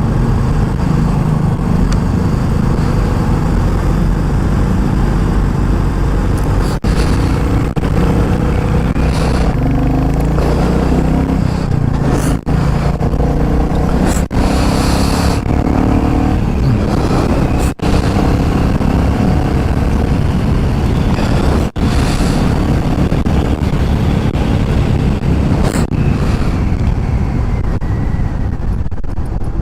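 Sport motorcycle engine running under way, heard from the rider's position with wind noise, its pitch wavering in the middle stretch and broken by a few very brief dips.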